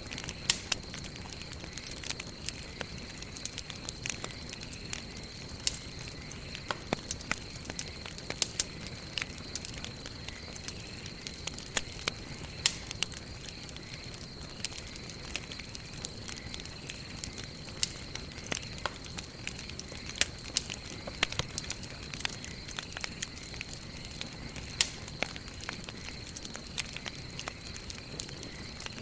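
Campfire wood burning with irregular sharp crackles and pops over a soft steady hiss. A faint steady high tone runs underneath.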